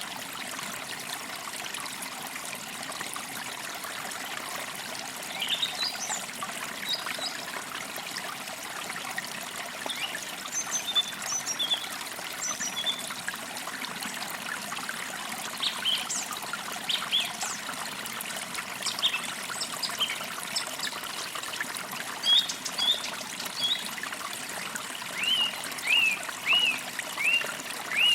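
A small creek trickling steadily over stones, with birds chirping now and then above it: scattered short calls, and a quick run of five or six near the end.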